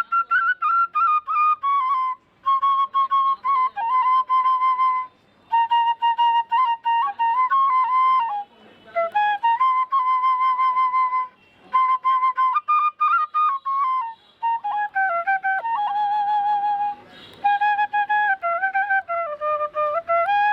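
Background music: a solo flute melody played in short phrases with brief pauses between them.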